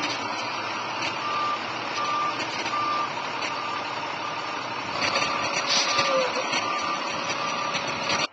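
A truck's reversing alarm beeping at an even pace, about three beeps every two seconds, over steady engine and road noise; the engine noise gets louder about five seconds in.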